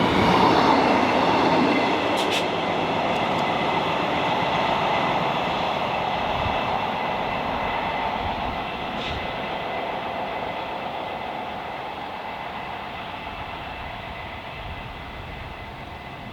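A train passing at speed and running away into the distance: the rushing rumble of wheels on the rails, with a few faint high steady tones over it, loudest at the start and fading steadily.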